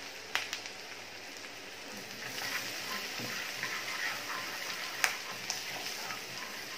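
Chopped garlic, ginger and green chillies sizzling in butter and oil in a frying pan, stirred with a wooden spatula. The hiss grows a little louder about two seconds in, with a few sharp clicks along the way.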